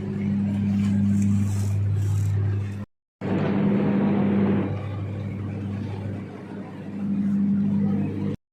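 Passenger train running: a steady low hum over rumbling noise that grows louder and softer, cut off abruptly twice by short gaps.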